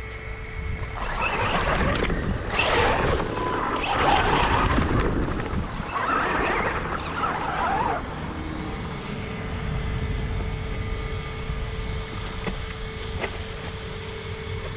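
ARRMA Talion 6S RC car running on a rough, wet construction-site surface: its motor and tyres come through in loud surges for the first half, then it runs on more quietly.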